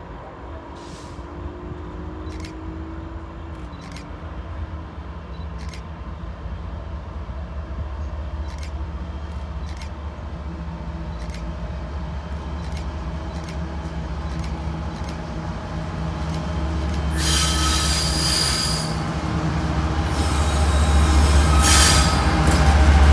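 Two BNSF diesel locomotives hauling an autorack train approach, their engines' low drone growing steadily louder. From about three-quarters of the way in, loud high-pitched wheel squeal on the curve comes in two spells.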